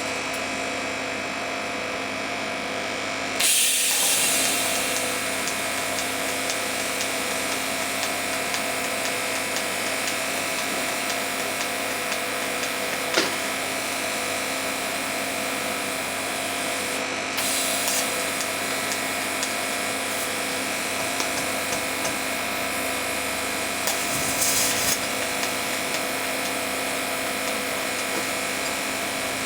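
A metalworking tool running steadily for the whole stretch, a continuous noisy sound with a few steady tones. It gets louder about three and a half seconds in and surges again briefly near the end, with a single sharp click midway.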